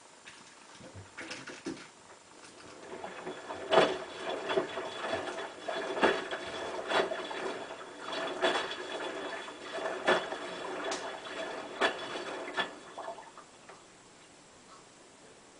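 Hotpoint WT960 washing machine turning its drum in a tumble with almost nothing inside. Starting a few seconds in, the drum turns for about ten seconds with a steady hum, water swishing and a knock every second or so, then stops.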